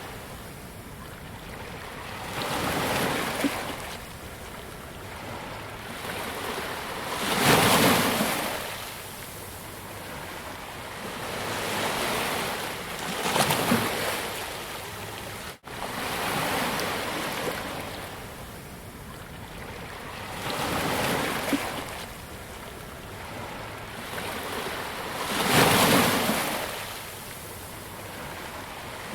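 Sea waves breaking and washing onto a beach, each surge swelling and fading every few seconds. There is a split-second gap about halfway through.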